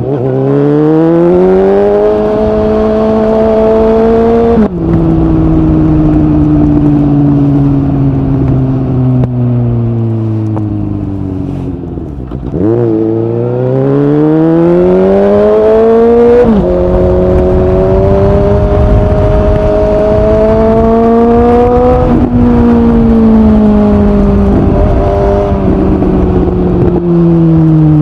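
Suzuki GSX-S750 inline-four motorcycle engine through a Yoshimura SQ11 exhaust run without its dB killer and with no catalytic converter. The engine pulls up through the revs and shifts up about five seconds in, then rolls off and slows for several seconds. It accelerates hard again, shifts up around the middle, keeps climbing for a few seconds, then eases off near the end.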